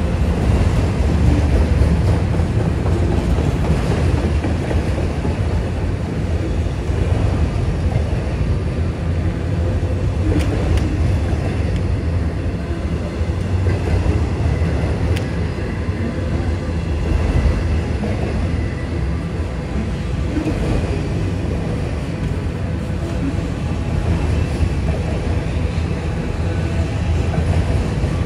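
Autorack freight cars rolling past: a steady rumble of steel wheels on the rails, with a few sharp clicks.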